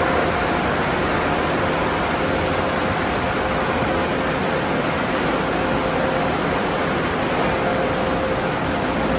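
Automatic car wash tunnel running: a steady rush of water spray and machinery noise with a faint steady hum from its motors.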